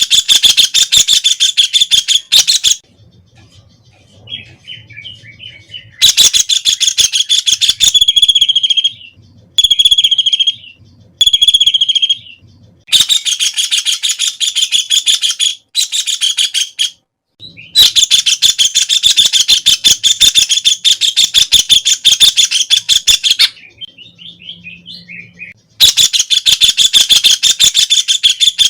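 White-throated kingfisher calling: loud, fast rattling trills in bouts of a few seconds with short pauses between them. In the middle come three separate, drawn-out single notes, about two seconds apart.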